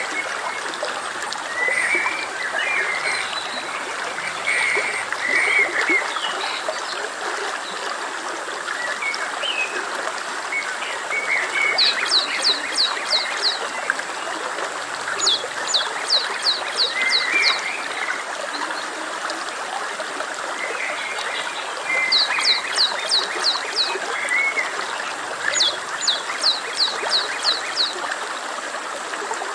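Stream babbling steadily. Over it, an animal call repeats four times: a quick run of about six falling notes, high-pitched, lasting about a second and a half. There are also scattered softer chirps.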